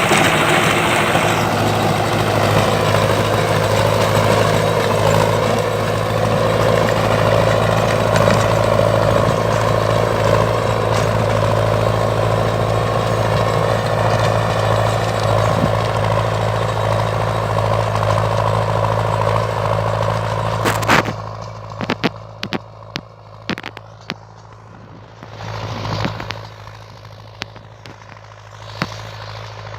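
HMT 6522 tractor engine running steadily and loudly. About 21 seconds in, the sound drops off sharply, leaving a quieter steady engine hum with scattered clicks and knocks.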